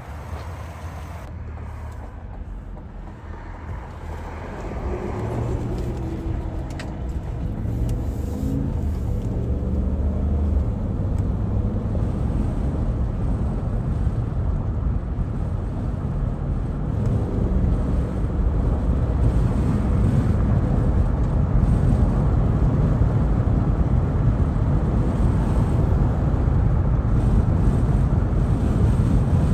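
Cadillac Escalade's 6.2-litre V8 pulling away and accelerating, its engine note stepping up in pitch a few seconds in, then settling into a steady low drone with tyre and road noise that grows louder.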